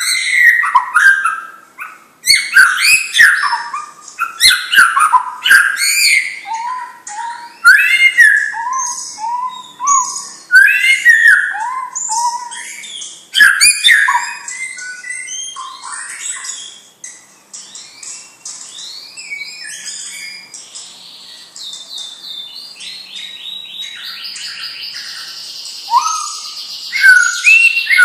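White-rumped shama (murai batu) singing a rich, varied run of loud, clear whistled phrases. About two-thirds of the way through it switches to a fast repeated rattling trill for several seconds, then the whistles return near the end.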